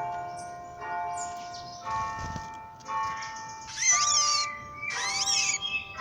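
Bells ringing in sequence, a new stroke about once a second, each leaving steady ringing tones. Near the middle, two loud rising-and-falling animal calls cut over them.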